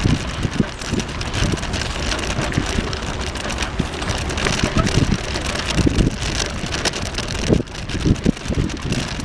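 Wind buffeting the microphone on a moving bicycle, a steady rushing noise broken by irregular low thumps, over the hum of passing road traffic.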